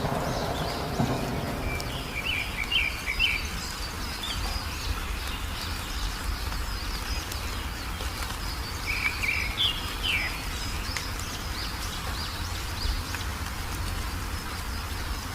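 Wild birds chirping in two short clusters of quick notes, about two seconds in and again near ten seconds, over a steady outdoor background with a low rumble.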